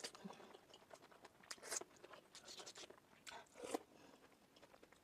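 Faint close-miked eating sounds of momo dumplings being bitten and chewed: short, irregular wet crackles and smacks, the clearest about one and a half seconds in and again between three and four seconds.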